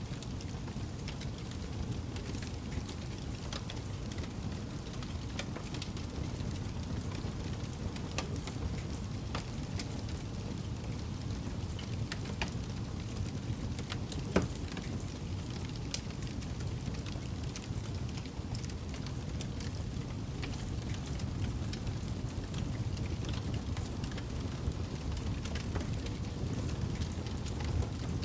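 Campfire burning with a steady low rumble of flames and scattered crackles, with one sharper pop about halfway through.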